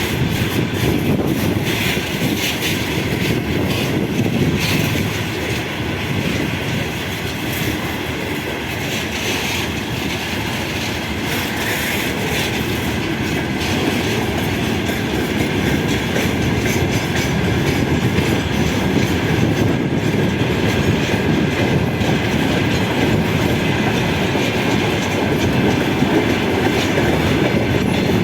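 A train rolling past on the rails at the station, a continuous rumble of wheels on track, getting a little louder in the second half.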